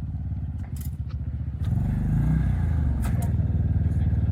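Honda Talon 1000R UTV's parallel-twin engine running, louder and rising in pitch about a second and a half in as it is given throttle. A few short knocks or clatters sound over it.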